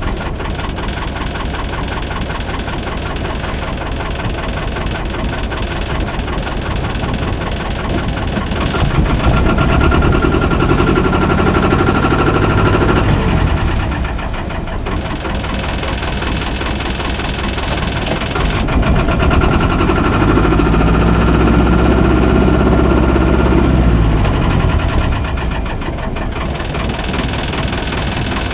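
Albin 2D marine engine running steadily with a rapid, even knock of firing strokes, growing louder twice for several seconds at a time.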